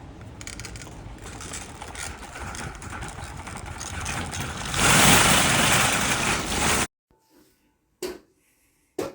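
A car engine running, then suddenly much louder for about two seconds, as if revved, before the sound cuts off abruptly. Two short clicks follow in near silence.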